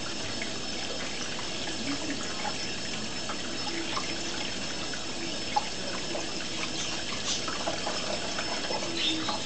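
Tap water running steadily into cupped hands while a green-cheeked conure bathes in them, with small splashes and one sharp tick about halfway through.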